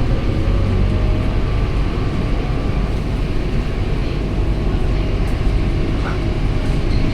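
Scania K230UB single-deck city bus on the move: its diesel engine runs with a steady low rumble mixed with road noise.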